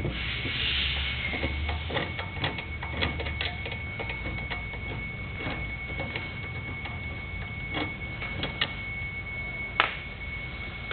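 Light, irregular clicks and taps of a hand tool working a screw out of the back of an unplugged chop saw, over a faint steady high whine.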